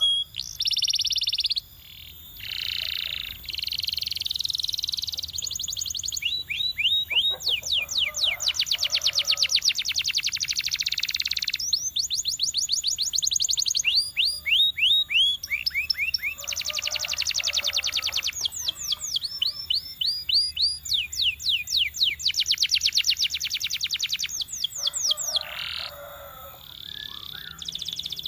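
A domestic canary singing: a string of trills, each a rapid run of one repeated falling note, switching to a new note type every few seconds. Some trills are very fast and others slower.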